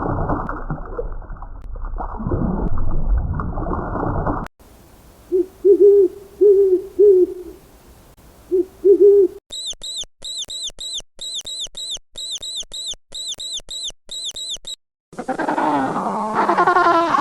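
A run of different animal calls: low hoots repeated in short groups, then a long series of rapid, high-pitched chirps, then a wavering call near the end.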